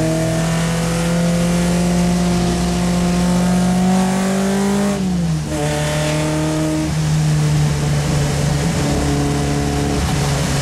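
Race-prepared Triumph Spitfire Mk3's four-cylinder engine under load, heard from inside the cabin: its note climbs slowly, drops sharply about five seconds in, then runs steady. A constant hiss of rain and spray on the wet track lies under it.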